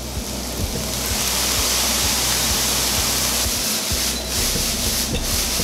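Spam fried rice sizzling in a hot frying pan, a steady hiss just after soy sauce and fish sauce have gone in.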